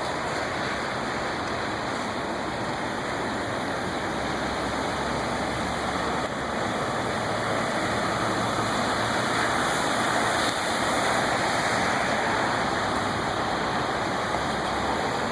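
Floodwater rushing: a steady, even wash of noise that grows a little louder about two-thirds of the way through.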